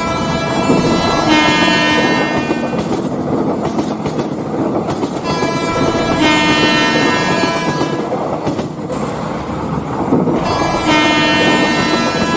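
Train sounds: a steady rumbling run of a train with a many-toned horn sounding three times, each blast about two seconds long.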